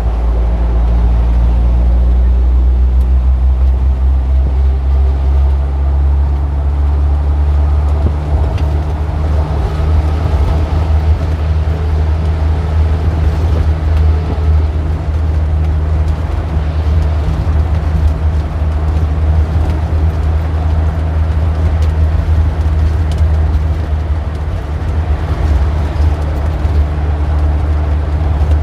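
Street traffic dominated by the steady low hum of a large vehicle's engine running close by, such as a bus, with the noise of passing traffic over it.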